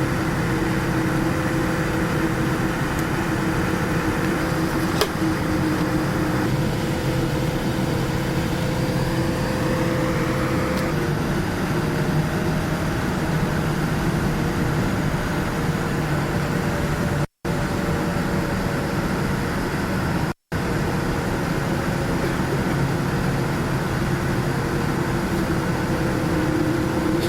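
Steady cabin noise inside a Boeing 787-9 airliner on the ground before takeoff: engine and air-conditioning hum with a few held tones. The sound cuts out to silence twice, briefly, about two-thirds of the way through.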